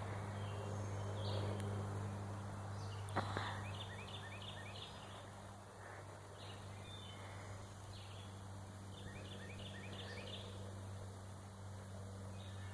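Birds calling faintly in the background, with runs of short, rapid notes in the first few seconds, over a steady low hum. A single sharp click sounds about three seconds in.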